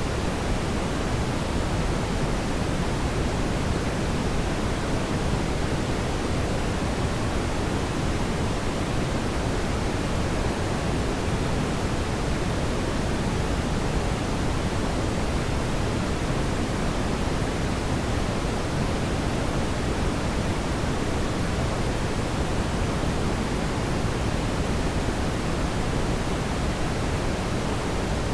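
Fireplace ambience: a steady, low rushing noise of burning flames, even throughout, with no distinct crackles or pops.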